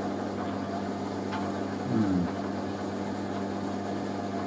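Steady low electrical hum with faint room noise, and a short falling murmur from a person about two seconds in.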